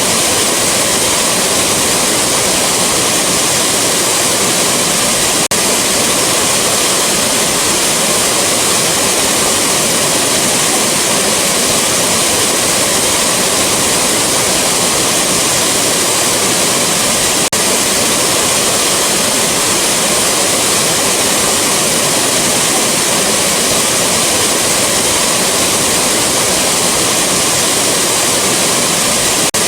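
Rushing waterfall: a loud, steady roar of falling water with no change.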